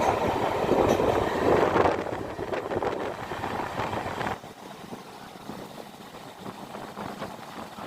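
Express train running noise: a loud, even rumble of coaches and wheels that drops suddenly to a much quieter rumble about four seconds in.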